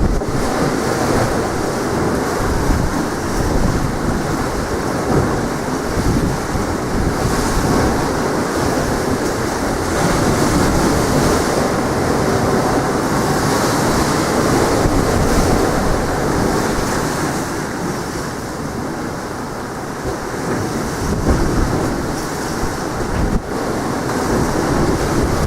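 Strong wind buffeting the microphone with an uneven low rumble, over sea waves breaking and washing on the shore.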